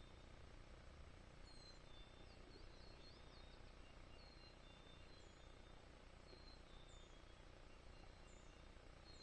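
Near silence with faint small-bird chirps repeating every second or so, and a quick run of high notes between two and three seconds in, over a faint low rumble.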